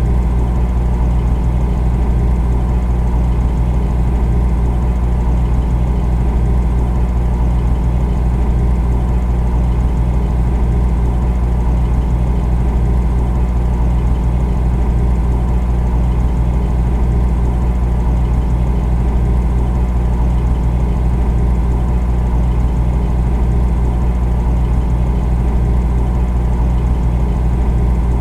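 Refrigerator running, a steady low motor hum with no change.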